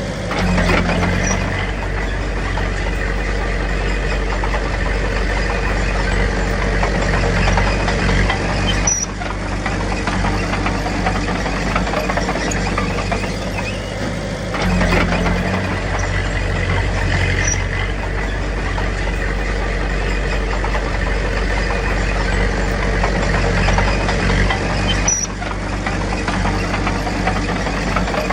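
Diesel engine of a Komatsu D21P bulldozer running steadily under working load, its pitch and level shifting every several seconds as the load changes.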